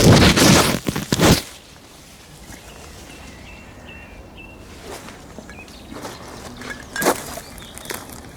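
Footsteps with rustling, loudest in the first second and a half, then a few scattered single steps. A bird chirps faintly a few times in the quiet stretch between them.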